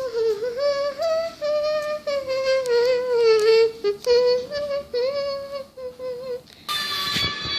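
A girl humming a wordless tune, a run of held and sliding notes with short breaks. Near the end the humming stops and a different sound with several steady high tones begins.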